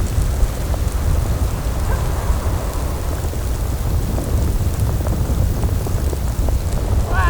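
Snowstorm wind buffeting the tent: a steady deep rumble with scattered light ticks on the fabric. A brief wavering squeak comes near the end.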